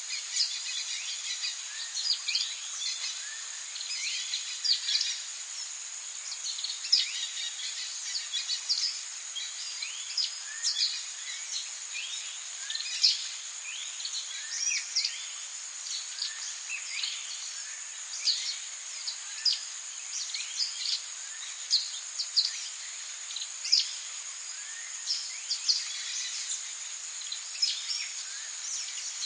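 Rainforest ambience: a steady high-pitched insect drone and a light hiss of rain, with many short, quick bird chirps and calls scattered throughout.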